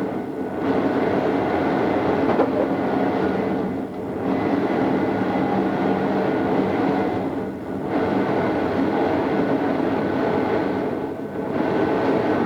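Odakyu 2600 series electric train running, recorded on cassette tape: a steady rolling rumble with a few steady hum tones, dipping briefly in level about every three and a half seconds.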